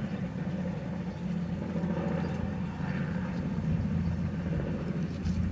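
A steady low mechanical hum and rumble.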